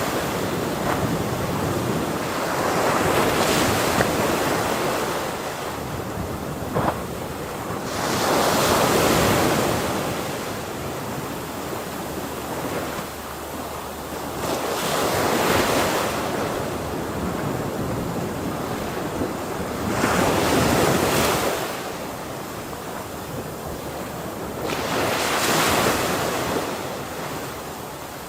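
Ocean waves breaking on a shore, each wave swelling in a loud rush and falling back about every five or six seconds, with a steady wash of surf between them.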